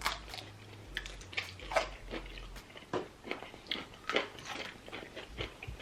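A person chewing and biting food close to the microphone, with many irregular wet mouth clicks and smacks.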